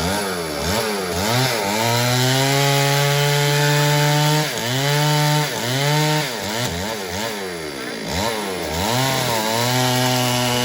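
Stihl MS 382 two-stroke chainsaw running under repeated throttle, revving up and dropping back several times with two longer stretches held at high speed while cutting wood.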